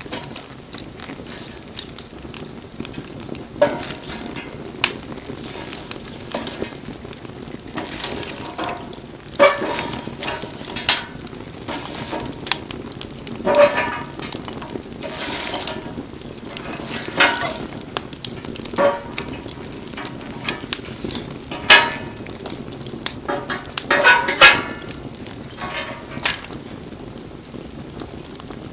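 Wood campfire crackling and hissing, with irregular sharp pops over a steady hiss.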